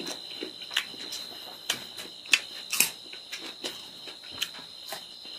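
Close-miked mouth sounds of a person chewing pork and rice: irregular soft clicks and lip smacks, over a faint steady high-pitched tone.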